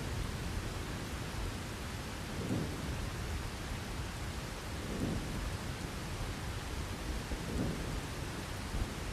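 Steady heavy rain with low thunder rumbling, swelling and fading three times about two and a half seconds apart.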